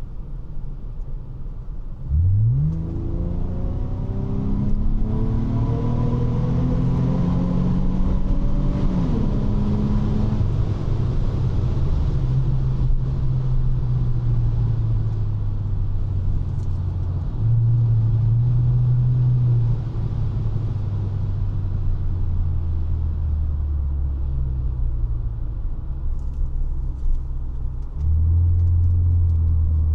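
Honda Legend's 3.5-litre V6 exhaust under way. The engine note jumps up sharply about two seconds in, then climbs steadily as the car accelerates and drops at a gear change around ten seconds in. It then cruises with a steady drone that steps up and down a few times, rising again near the end.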